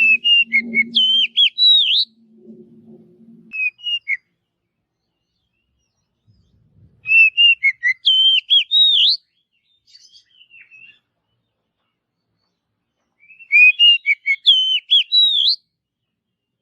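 Oriental magpie-robin singing: three phrases of quick, varied whistled notes with pauses of several seconds between them, plus a short snatch of song about four seconds in.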